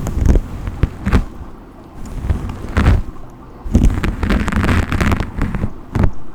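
Brush strokes close to the microphone: scratchy sweeps of a brush, a few separate short strokes followed by a longer run of quick strokes in the second half.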